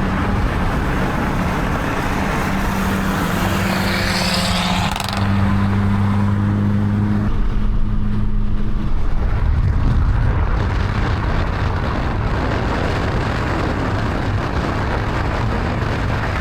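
Car engine running at a steady pace, a low droning tone that steps to a new pitch about five seconds in, then gives way to rushing road and wind noise.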